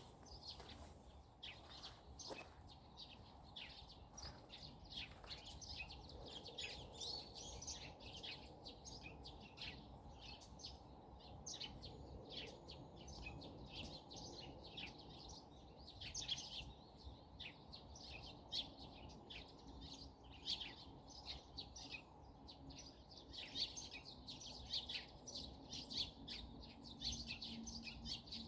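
A chorus of small songbirds chirping and twittering continuously in rapid short notes, over a faint low background hiss.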